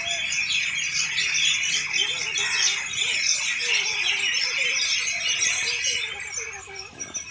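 Birds chirping and twittering, many short overlapping calls at once, fading near the end.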